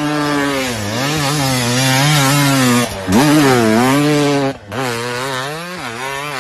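Dirt bike engine revving, its pitch dipping and climbing again several times as the throttle is rolled off and on, with two brief cuts, about three seconds in and again about four and a half seconds in.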